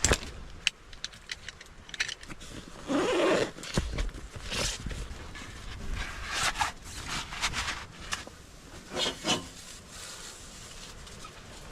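Tent zipper and nylon fabric being handled: several short zipping and scraping strokes, with scattered clicks and a low wind rumble.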